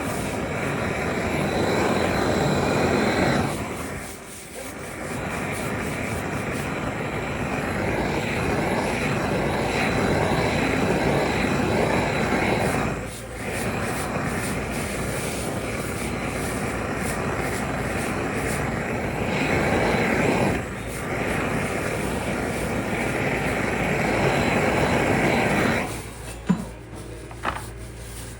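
Factory work equipment running with a steady rushing noise that breaks off briefly three times and stops about 26 seconds in, followed by two sharp clicks.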